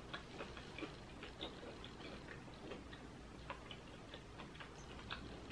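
Faint, soft chewing of a Hot Cheeto-breaded fried pickle: small irregular mouth clicks, several a second, with no crunch, because the breading has come out soft rather than crispy.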